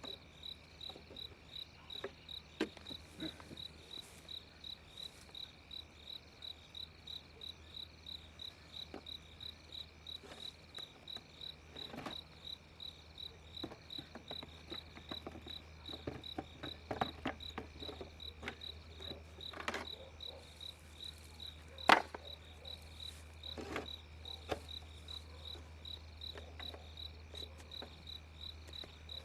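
A cricket chirping steadily at night, a high pulsed chirp about twice a second, with scattered knocks and clicks, one sharper knock about three-quarters of the way through.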